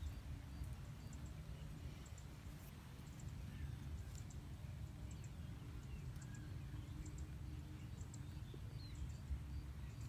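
Outdoor ambience: a steady low rumble with faint, scattered bird chirps in the background.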